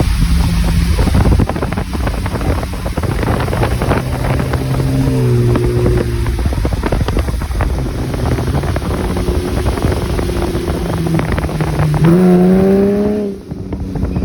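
Lexus GS300 on a straight-piped exhaust, running loud with a deep, steady drone. The revs rise briefly about five seconds in and again near the end, and the sound drops away just before the end.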